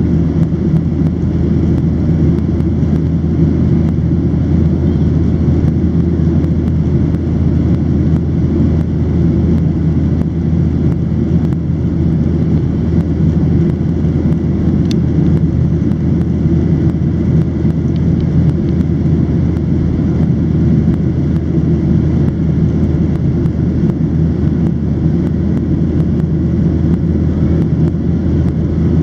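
Boeing 737-700 jet engines and airflow heard from inside the passenger cabin: a steady, loud, low drone that holds an even level throughout.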